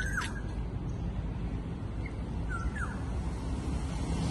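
Birds calling twice: a short falling call right at the start and another about two and a half seconds in. Beneath them is a steady low background noise.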